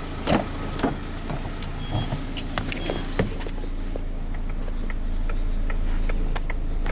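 2006 Peugeot 206's engine idling with a steady low hum, heard from inside the cabin, while switches and fittings are handled with several sharp clicks.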